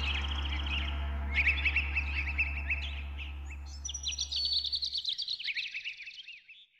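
Songbirds chirping and trilling in quick, busy phrases over a low steady hum. The hum fades out about five seconds in, and the birdsong fades away just before the end.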